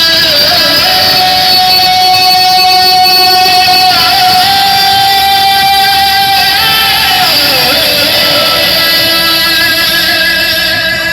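Loud music played through a miniature sound-system truck's speakers: a dense track with a long, wavering melody line that holds notes and slides between them.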